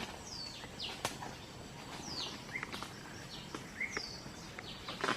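Birds calling in short, high whistles that slide downward, repeated every second or so over a steady background hiss, with one sharp click about a second in.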